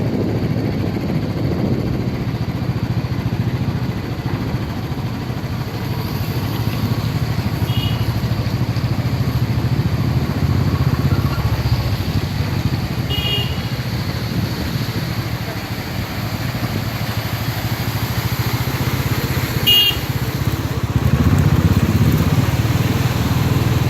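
Motorcycle running steadily on the move, a low rumble mixed with wind noise. Three brief high-pitched sounds cut through it at intervals of about five or six seconds; the last is the loudest.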